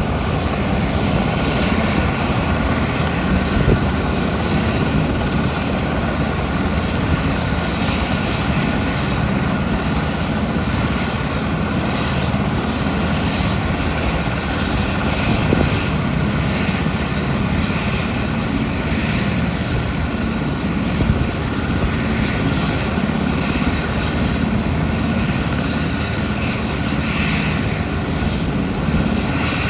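JMSDF SH-60K helicopter's twin turboshaft engines and rotor running steadily.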